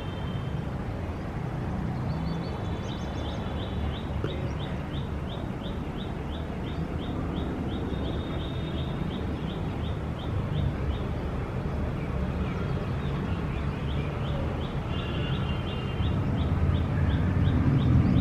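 A bird chirping over and over, about two short high chirps a second, over a steady low rumble of city traffic that grows louder near the end.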